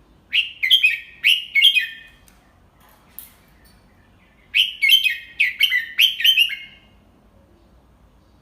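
Red-whiskered bulbul singing: two quick phrases of several clear, slurred notes, the second about four seconds after the first.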